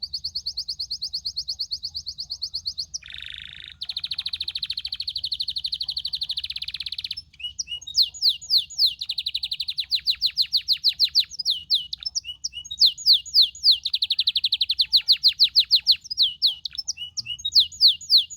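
Domestic canary singing in long, rapid trills on an even pitch, switching about seven seconds in to phrases of quick, repeated sweeping notes.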